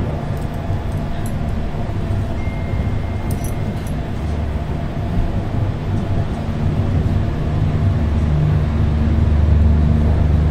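Steady low rumble and hum inside an Indian Railways Vistadome passenger coach, growing a little louder near the end.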